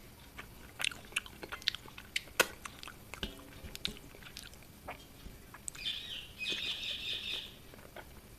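Eating sounds: a scatter of sharp clicks and smacks in the first half, then a bird twittering for a second or two near the end.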